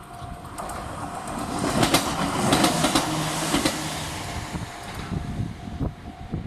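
A Chichibu Railway train passing a small level crossing, its wheels clacking over the rail joints, loudest a couple of seconds in. The crossing's electronic alarm, a Tokai-type tone, keeps sounding, drowned out while the train goes by and heard again near the end.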